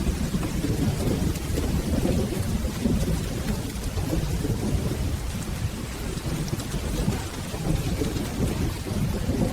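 Steady rain with a continuous low rolling rumble of thunder underneath.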